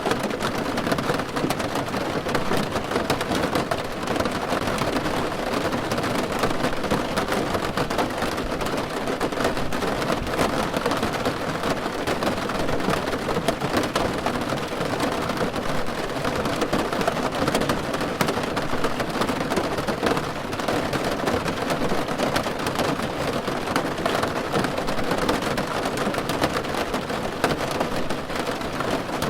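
Steady rain falling on a car roof: a dense, even patter of drops that does not let up.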